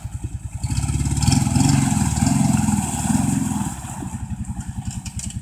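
Quad (ATV) engine running and revving under load while wading through deep river water: three surges in engine speed about a second apart in the middle, then it drops back to a lower, quieter pulse.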